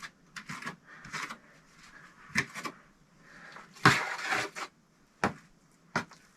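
Sharp knocks and short scrapes of hand work on a brick stove, with a longer rough scrape about four seconds in.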